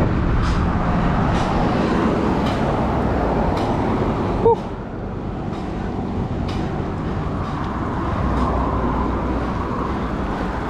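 Steady road and traffic noise around a bicycle climbing a steep hill, with a soft hiss recurring about once a second.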